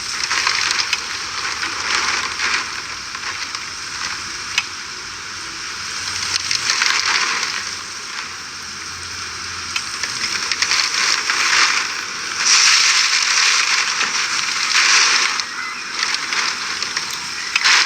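Hurricane rain and wind: a steady hissing rush of rain that swells louder in gusts several times.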